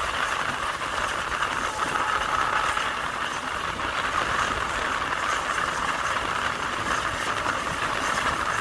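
Passenger train coach running along the track, heard from on board: a steady rolling wheel-and-rail noise with rattling.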